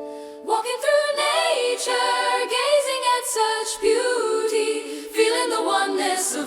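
Unaccompanied vocal music: several layered voices singing a cappella, coming in about half a second in as a harp fades.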